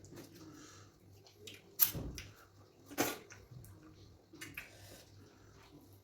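Eating sounds of fufu and okra soup being eaten by hand: scattered wet smacks and clicks of mouths and fingers in soft food, the two loudest about two and three seconds in.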